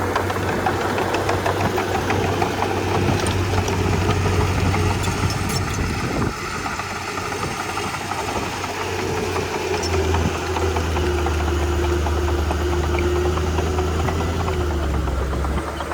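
Komatsu D31P crawler bulldozer's diesel engine running steadily, with scattered faint clicks. The engine note dips briefly about six seconds in, then turns deeper and stronger from about ten seconds on.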